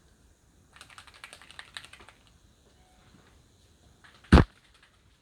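Small paint bottles clattering together as they are rummaged through: a quick run of clicks and rattles lasting about a second, then one loud knock near the end.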